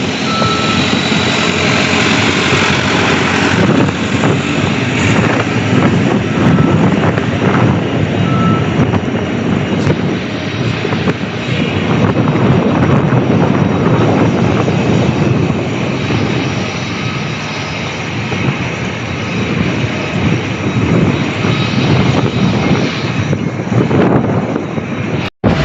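Aircraft engines running loud and steady, with a brief dropout just before the end.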